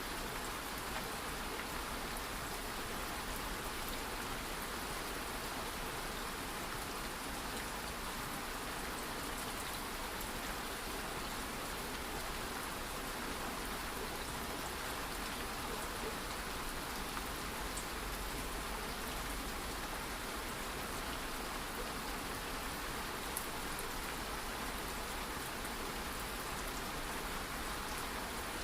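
Steady light rain falling, an even hiss with a few faint drop ticks.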